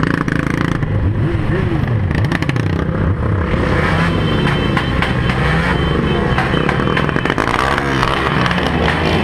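Several motorcycle engines running at once, revving so that their pitch rises and falls and overlaps.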